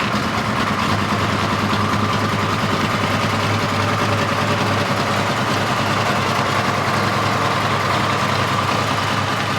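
Car engine idling steadily at close range.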